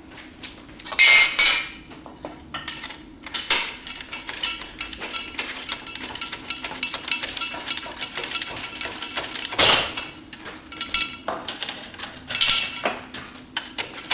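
Irregular metallic clanks and clinks with a bright ring, the loudest about a second in, near ten seconds in and about twelve and a half seconds in: hand tools and steel parts knocking together during work to remove a car engine.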